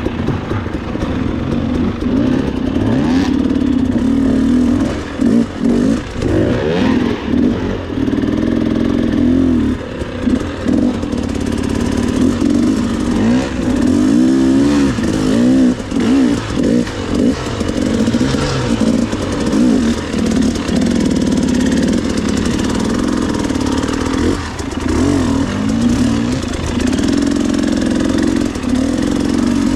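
Dirt bike engine riding a rough trail, the throttle opening and closing over and over so the revs rise and fall, with brief drops where it is let off.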